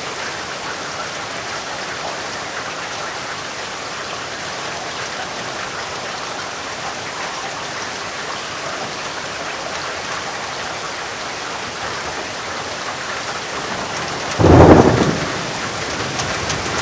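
Steady rain, with one sudden loud clap of thunder near the end that fades away over about a second.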